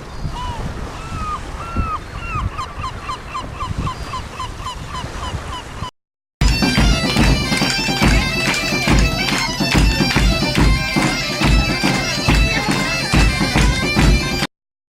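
A bird calling over a steady rush of water, its repeated gliding calls coming faster and faster, then a sudden cut about six seconds in to loud music with a strong steady beat.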